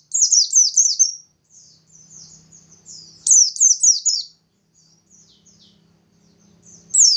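White-eye (pleci, bustomi type) singing vigorously. It gives loud quick runs of four or five high, downward-slurred notes at the start, again about three seconds in and once more at the end, with softer twittering between the runs. This is the full 'nembak' song that keepers play to set other white-eyes singing.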